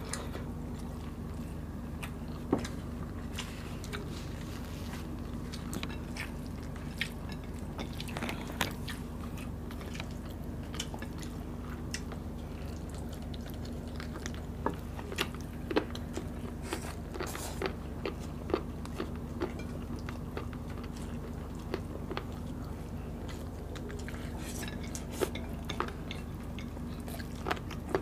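Close-up eating sounds of people chewing and biting into chicken adobo and rice: irregular small clicks and smacks of the mouth, scattered through the whole stretch, over a steady low hum.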